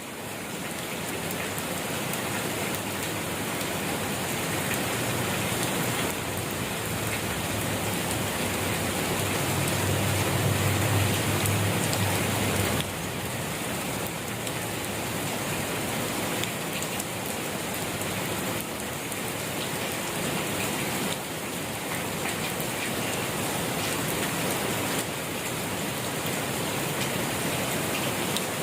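Steady rain falling and pattering on surfaces. There is a brief low rumble about a third of the way in.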